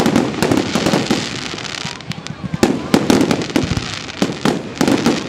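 Aerial fireworks display: shells bursting in quick succession, with many sharp bangs, the loudest at the start and about three seconds in.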